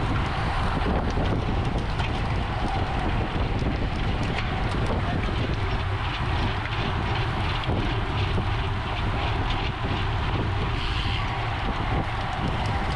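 Steady wind rushing over the microphone of a camera on a moving road bicycle, with a low rumble of road and tyre noise and a few faint ticks.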